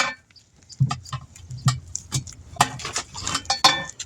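A string of irregular sharp clicks and knocks, metal tools and parts being handled during tire changing, after a brief lull at the start.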